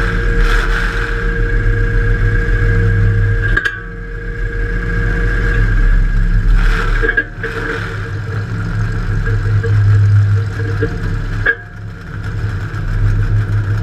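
Demolition derby car's engine running and revving, heard from inside the car, with sharp knocks about four seconds in and again near the end, where the engine note drops back before building up again.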